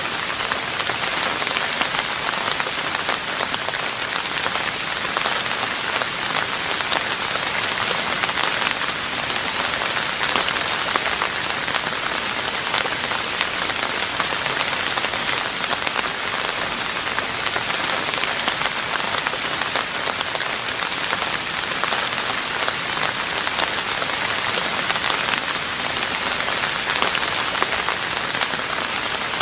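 Steady rain falling on a roof, a dense even patter of drops without pause.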